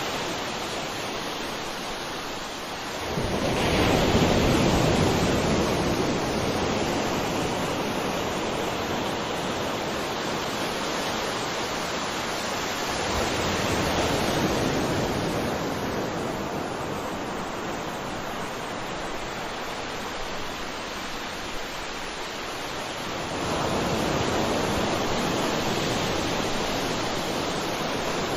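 Sea waves breaking and washing on a shore, a steady rush that swells into a louder surge about every ten seconds; the biggest wave comes about three seconds in.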